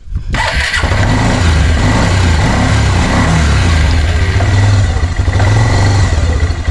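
Quad bike engine firing up just after the start and then running steadily, on a newly fitted carburettor.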